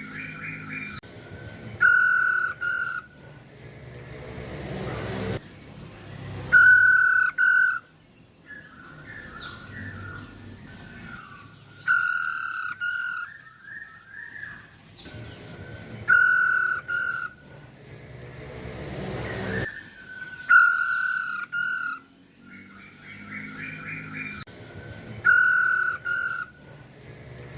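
Female poksay Hongkong (masked laughingthrush) calling: clusters of short, harsh notes that repeat in the same pattern every four to five seconds.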